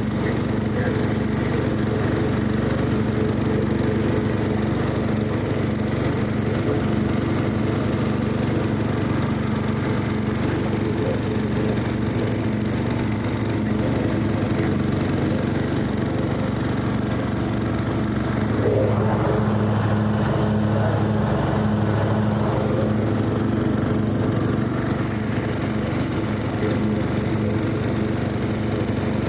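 Riding lawn mower's Briggs & Stratton engine running steadily under way while mowing grass. About two-thirds of the way through, it grows slightly louder and fuller.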